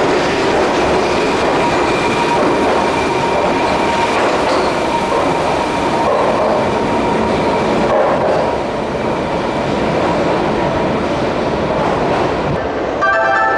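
Keihan electric train moving along the station platform: a steady, loud rumble of wheels and running gear with faint steady high tones, easing slightly a little past the middle. Near the end a station's melodic chime starts.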